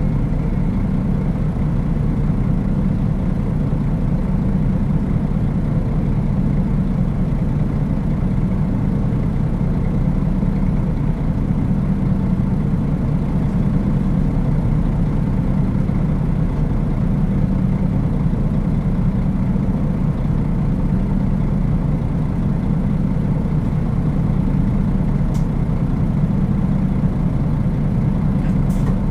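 Nissan Diesel KL-UA452KAN city bus diesel engine running steadily at an even pitch, with two faint light ticks near the end.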